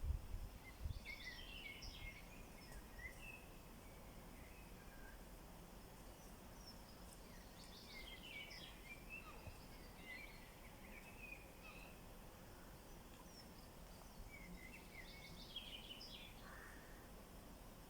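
A small songbird singing faintly in three bouts of quick, high chirping phrases over a quiet steady background hiss. A brief low thump or rumble right at the start.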